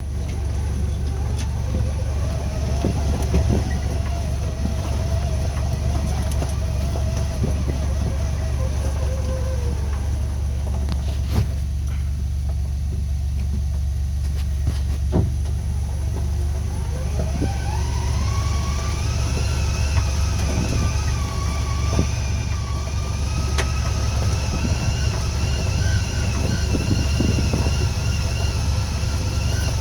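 Motor vehicle being driven: a steady low rumble with an engine whine that drops about eight seconds in, then climbs about seventeen seconds in and holds at a higher pitch, with scattered knocks.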